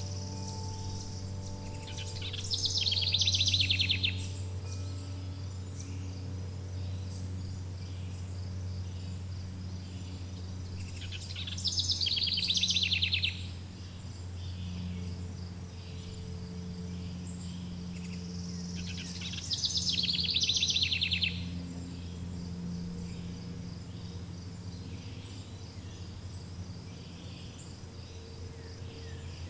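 A songbird repeating a rapid trilling song three times, about eight seconds apart, over a steady high chirring of insects. Underneath runs a low steady hum, and lingering wind-chime tones fade out near the start.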